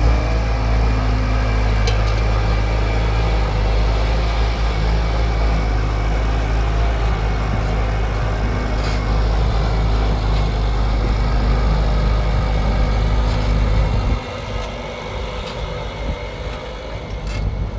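An engine running steadily with a deep hum, cutting off abruptly about fourteen seconds in, after which a quieter background with a few light clicks remains.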